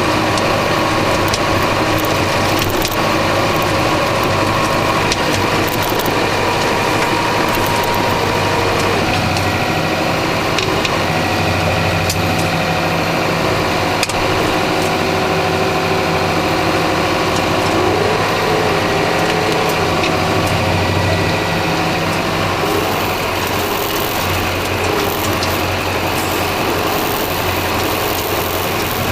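Massey Ferguson 3075 tractor's engine running steadily while pulling a Kverneland three-furrow reversible plough, with scattered clicks and rattles over the drone. Near the end the engine note shifts slightly as one low tone drops out.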